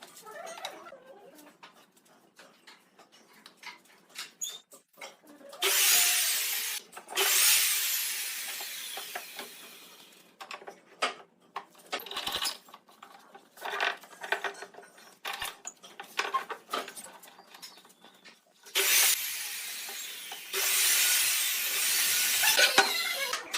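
A power tool working wood in two pairs of loud bursts of one to three seconds each, one of them fading as the tool winds down. Knocks and clicks of wood being handled come between the bursts.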